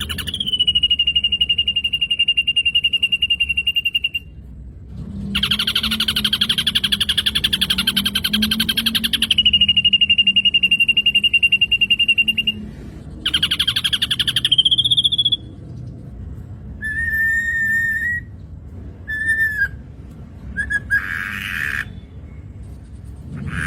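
Black drongo song: long, steadily pitched, fast-trilled whistling notes held for several seconds each with short breaks, the third rising at its end, followed by shorter clear whistles and chirps.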